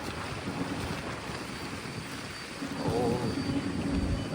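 Wind rumbling on the microphone, with a steady low hum joining it about two and a half seconds in.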